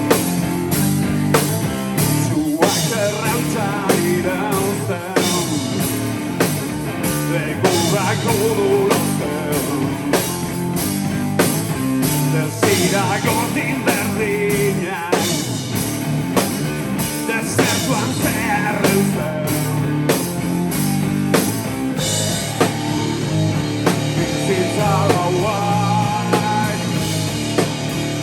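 Rock band playing live: a drum kit keeping a steady beat under distorted electric guitar.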